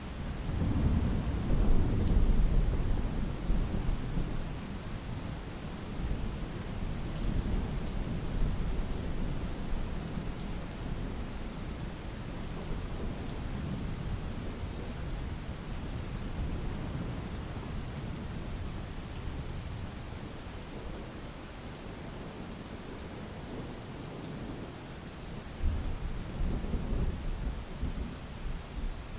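Steady rain falling, with a long roll of thunder rumbling low just after the start and fading over a few seconds, and a second, weaker rumble near the end.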